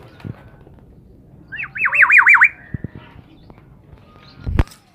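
A bird gives one rapid warbling call of about five quick up-and-down notes, lasting under a second, about a second and a half in. Near the end there is a short dull thump.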